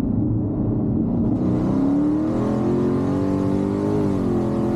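Twin-turbocharged, supercharged 6.2-litre Hemi V8 of a Dodge Charger Redeye making a hard third-gear pull, heard from inside the cabin. The engine note climbs and then wavers, and a rushing hiss comes in about a second and a half in. The rear tyres are spinning the whole way and traction control is cutting in.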